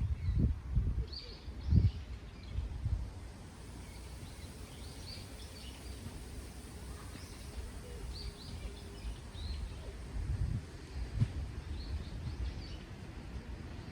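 Wind gusting on the microphone, with low rumbling puffs strongest in the first few seconds and again about ten seconds in, while small birds give short, high chirps every couple of seconds.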